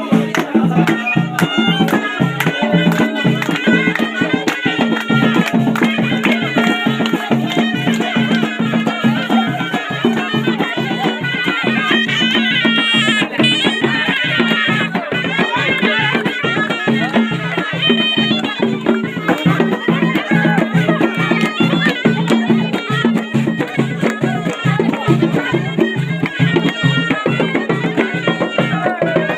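Moroccan ghaita, a reedy double-reed shawm, playing a traditional folk melody over a steady held low note, with a regular beat running throughout.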